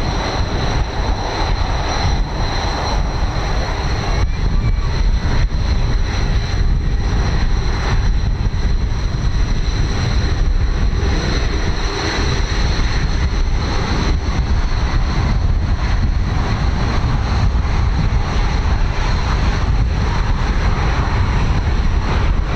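Red Arrows BAE Hawk T1 jet engines running steadily with a high turbine whine, under heavy wind buffeting on the microphone.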